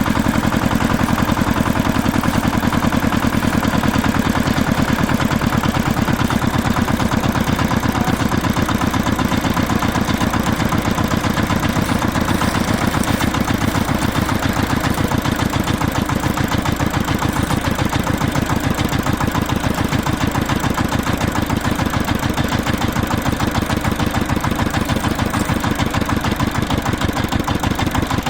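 An engine idling steadily, with a fast, even chugging pulse that does not change.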